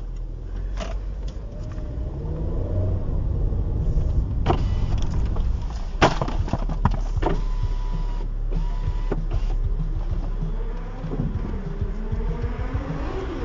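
Car on the move: engine and road noise with the engine pitch rising and falling, and a few sharp clicks or knocks along the way.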